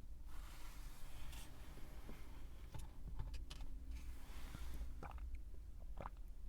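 Someone chewing a crunchy snack close to the microphone: irregular crisp crunches and mouth clicks.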